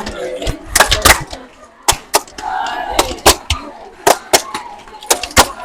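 Sharp, irregular cracks and bangs, a few each second, over faint voices.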